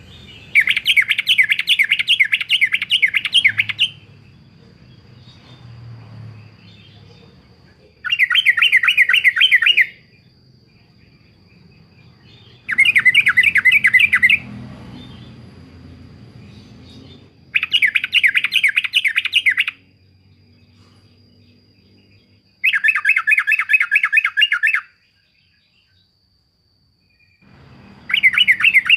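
Yellow-vented bulbul singing: phrases of rapid, bubbling repeated notes, each about two to three seconds long, given roughly every four to five seconds, with five full phrases and another starting near the end.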